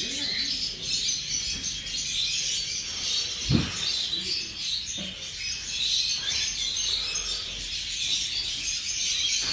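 Many small caged songbirds chirping and twittering together in a continuous chatter. A short dull thump about three and a half seconds in, and a lighter one a little later.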